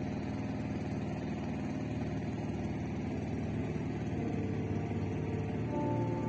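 Boat engine running steadily with an even low drone. Faint music tones enter near the end.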